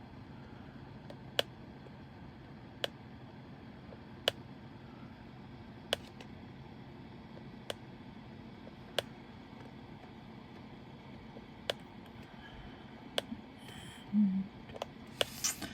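Diamond painting drill pen tapping resin drills onto the canvas one at a time: sharp single clicks about every one and a half seconds, over a low steady hum.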